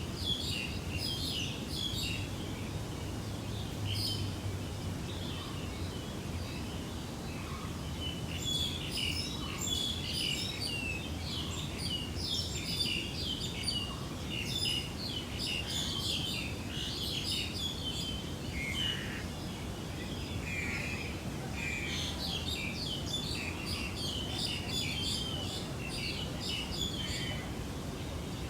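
Many small birds chirping and twittering continuously, short quick calls overlapping, over a low steady background noise.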